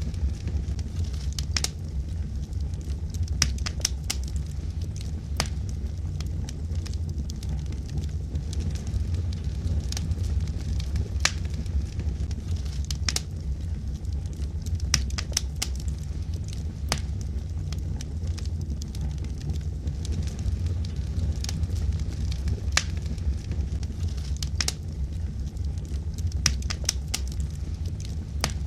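Wood logs burning in a fireplace: a steady low rumble of fire with frequent sharp crackles coming at irregular moments.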